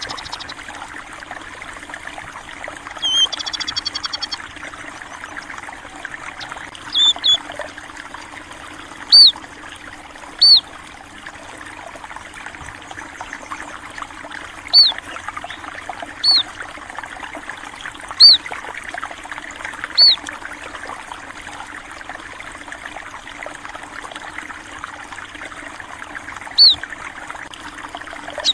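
Water trickling and flowing steadily, with small birds calling over it: a short trill about three seconds in, then single short, sharp chirps every few seconds, louder than the water.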